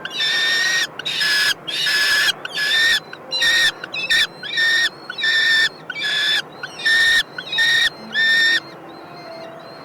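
Kestrels calling at the nest: a quick series of about a dozen loud, harsh, drawn-out calls, each about half a second long. The calls stop about eight and a half seconds in, and fainter, thin high calls follow.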